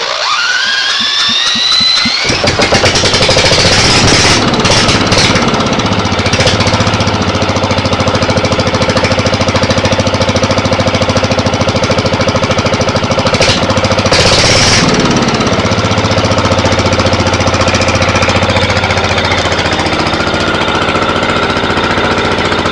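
Yanmar L90AE air-cooled single-cylinder diesel being cranked by its electric starter, a whine rising in pitch for about two seconds, until the engine catches and runs with a steady, rapid knocking beat.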